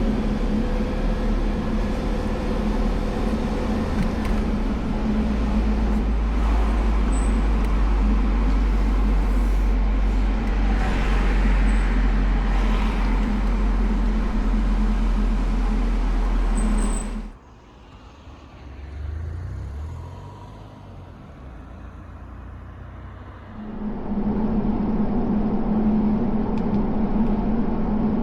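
Car driving, a steady low engine and road rumble. It drops abruptly to a quieter engine hum about seventeen seconds in and comes back just as abruptly about six seconds later.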